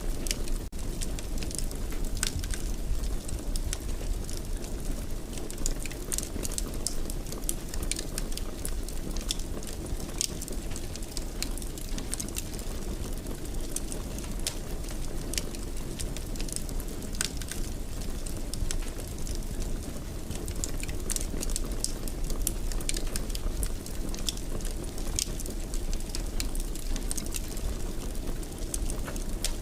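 Wood fire burning in a fireplace: a steady low noise of flames with frequent, irregular sharp crackles and pops.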